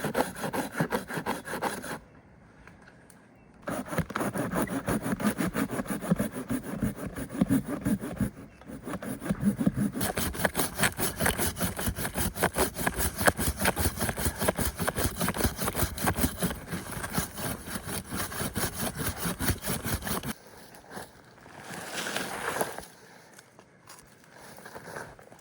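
Hand saw cutting through wood in quick, regular back-and-forth strokes. It pauses briefly about two seconds in and stops about five seconds before the end, leaving fainter rustling.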